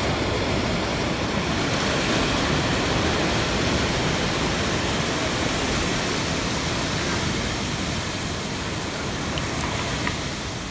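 Steady rush of ocean surf and wind, an even noise that swells slightly in the first couple of seconds and eases a little near the end.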